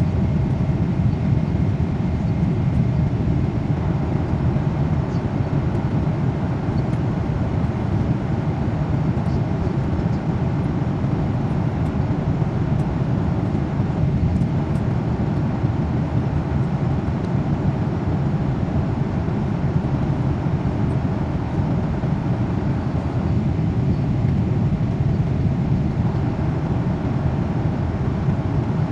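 Airliner cabin noise in flight: the steady, even rush of the engines and airflow, strongest in the low range and unchanging throughout.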